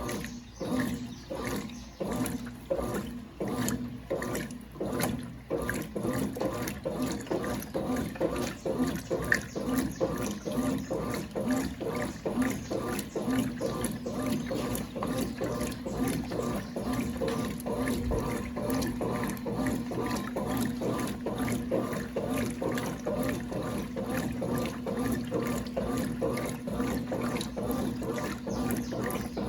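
Brastemp Clean 5 kg top-load washing machine running with water in the tub: rhythmic sloshing surges, about two a second at first and then more even, over a steady motor hum.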